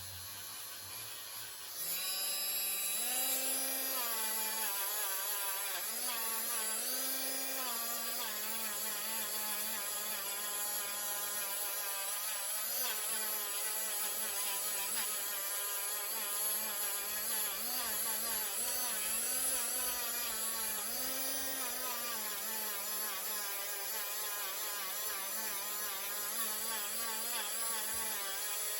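Hyper Tough power tool running while it polishes a knife blade. It gets louder about two seconds in, and its pitch dips and recovers every second or two as the blade is worked against it.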